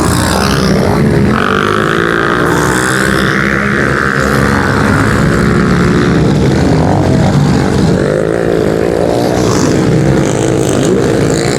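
Small pit bike engines running and revving on the race track, several at once, their pitch rising and falling as the riders work the throttle.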